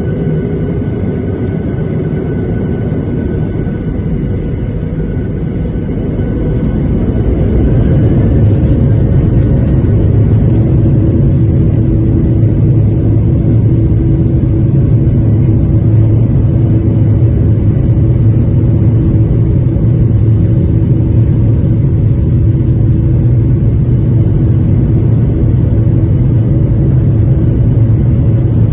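Boeing 737-800's CFM56-7B jet engines heard from inside the cabin, spooling up about seven seconds in and then holding a loud, steady rumble with a steady whine on top, as thrust is set for the departure.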